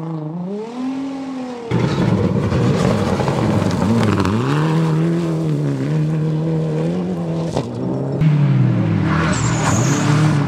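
Rally car engines revving hard through corners, the pitch climbing and dropping repeatedly with gear changes and lifts off the throttle. The sound gets abruptly louder about two seconds in as a different car takes over.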